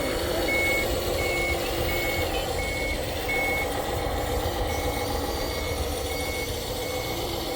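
Vehicle reversing alarm beeping at a steady pace, about one and a half beeps a second, with one short gap about halfway through. It sounds over a steady machine hum.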